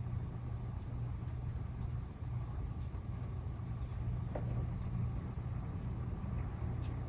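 Steady low hum of an idling engine, unchanged throughout, with a faint tick about four seconds in.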